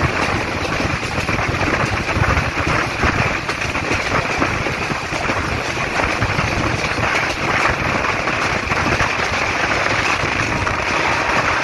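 Metre-gauge passenger coach running along the track, heard from its open door: a dense, steady rattle and clatter of wheels on the rails with wind rushing past.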